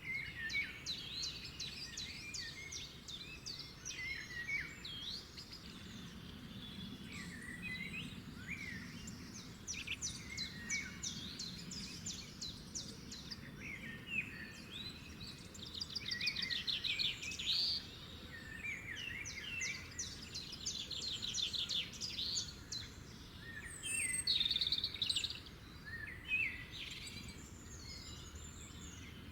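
Songbirds singing and calling over one another: chirps, quick whistled notes and fast trills, with the loudest trill runs in the second half. A faint low background rumble runs underneath.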